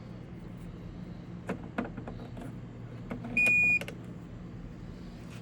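A few soft clicks, then a single electronic beep of about half a second, steady in pitch, over a low steady hum.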